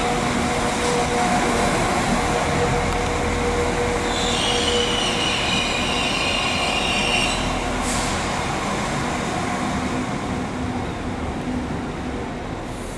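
A train running slowly through the station with a steady hum, its wheels squealing high-pitched against the rails for a few seconds near the middle.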